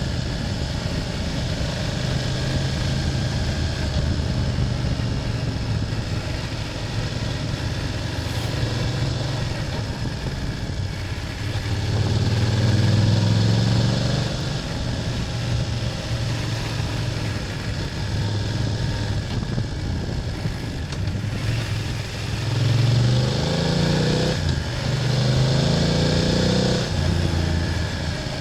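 BMW F800GS parallel-twin motorcycle engine running on the move, with wind rush. About twelve seconds in it revs up, and near the end it pulls through a run of rises and drops in pitch as it changes gears.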